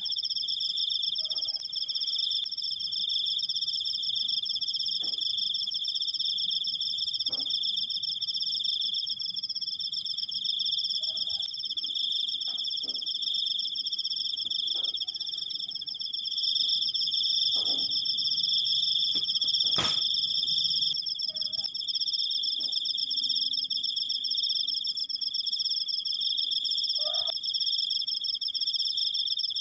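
Crickets trilling without a break: two steady, high-pitched trills at different pitches. A few faint knocks and one sharp click come about twenty seconds in.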